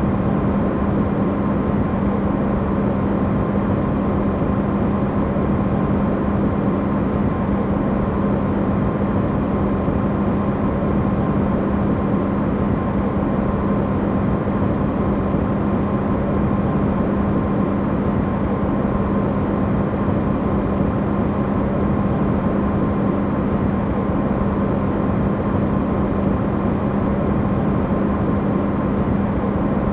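Electrolux refrigerator running, recorded amplified: a steady even hum with a low tone and a hiss that never changes.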